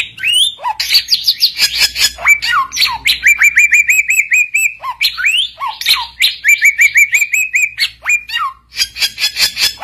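A samyong songbird singing a loud, varied song: trains of quick rising whistled notes, about six a second, mixed with sharp chirps and down-slurred whistles. It is the vigorous 'gacor' song that is used as a tutor recording and to call rival samyong birds.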